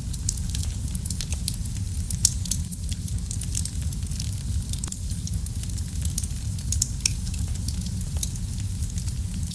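Fireplace fire crackling steadily, with frequent small sharp pops over a low, even rumble of flame. One pop stands out louder about two seconds in.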